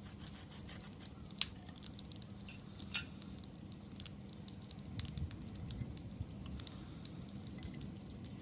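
Wood bonfire crackling, with scattered irregular pops over a low steady rumble of the flames; one sharp pop about a second and a half in is the loudest.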